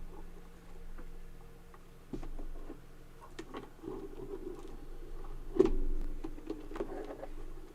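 Scattered clicks and taps of equipment being handled on a desk while a webcam is swapped, with one louder knock about five and a half seconds in, over a faint steady hum.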